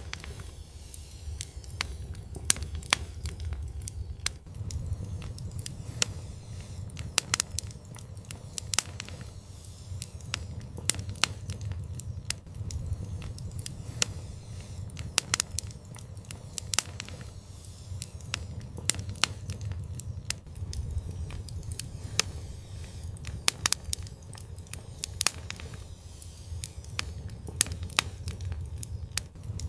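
Wood fire burning in an outdoor fireplace: steady sharp crackles and pops over a low rumble of the flames.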